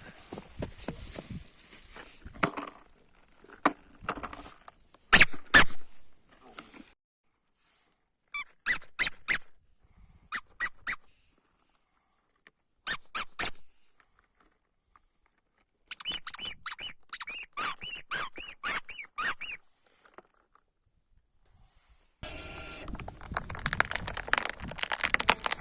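Squeaks and sharp clicks in short separate bursts, the loudest pair about five seconds in, then a quick run of squeaks lasting a few seconds, and a busier crackling stretch near the end.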